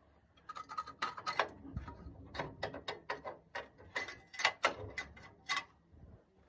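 Irregular metallic knocking and clinking, a few sharp strikes a second with a slight ring, from a loose part flapping under a Chevrolet Lacetti after its clamp broke apart: a knock that sounds like a worn engine bearing but is not.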